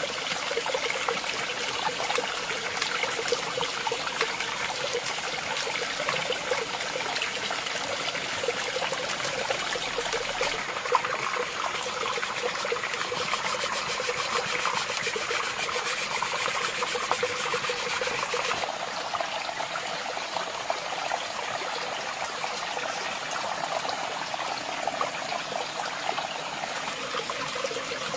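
Water trickling and flowing steadily.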